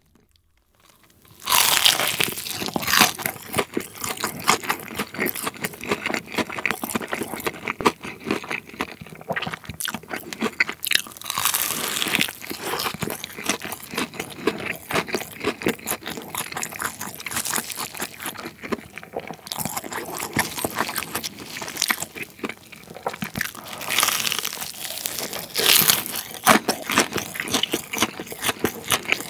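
Close-miked bite into a crispy fried chicken drumstick about a second and a half in, followed by steady crunching and chewing of the fried batter, with louder crunches again near the end.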